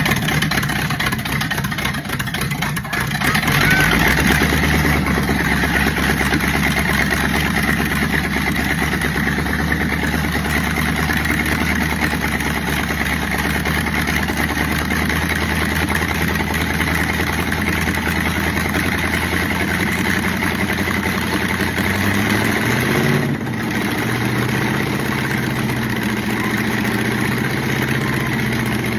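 Chevrolet Z11 427 big-block V8 firing up on its first start: ragged at first, catching about three to four seconds in, then running steadily at idle. Its idle speed shifts about twenty-three seconds in.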